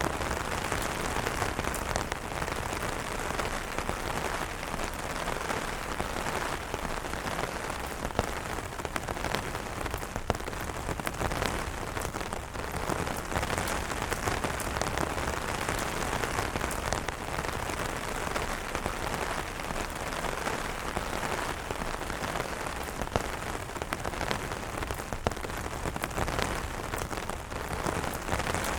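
Steady rain falling on an umbrella: a dense, even patter of drops, with a few louder single drops now and then.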